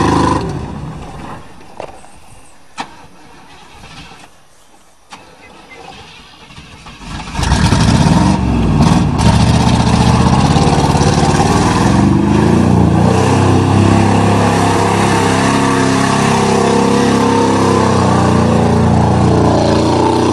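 A 1988 Chevrolet pickup's 305 V8 cuts out early on, leaving a quieter stretch with a few sharp knocks. About seven seconds in it fires up again and runs at raised, varying revs. It is missing, which is put down to wet ignition wires.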